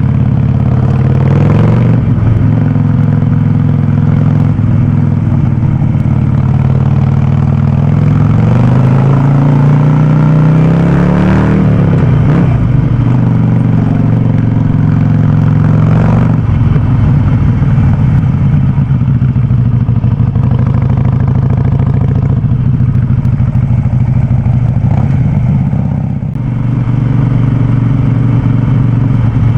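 Harley-Davidson Sportster 48's air-cooled 1200 cc V-twin running loud through an aftermarket VnH open exhaust. The engine note climbs for a few seconds from about eight seconds in, then drops off sharply near twelve seconds, changes again around sixteen seconds and dips briefly near the end.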